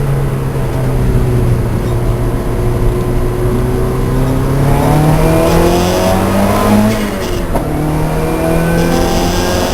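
Lancia Delta race car's engine running hard at a steady pitch, then climbing as it accelerates for a couple of seconds. The note drops sharply at an upshift about seven seconds in, then holds steady again.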